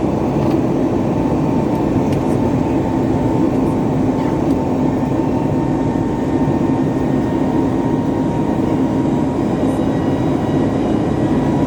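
Steady jet-engine noise heard inside the cabin of a Boeing 737 MAX 8, its CFM LEAP-1B turbofans running. It is an even, loud hum with a few faint steady whining tones over it.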